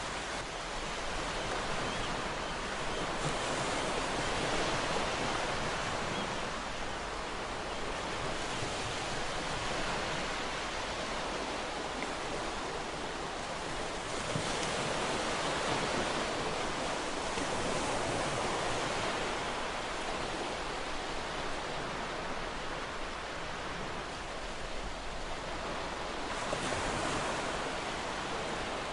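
Ocean waves breaking on a shore in a steady wash of surf, swelling and ebbing slowly, with louder breakers about every ten seconds.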